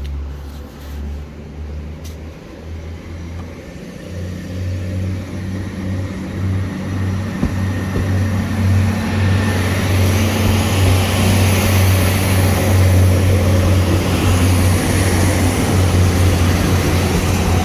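Northern Ireland Railways Class 3000 diesel multiple unit approaching and passing, its diesel engines droning under the running noise. The sound grows louder over about ten seconds, then stays loud.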